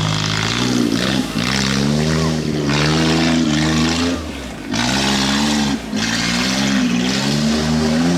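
Tractor engine revving under load, its pitch dropping and climbing again about three times.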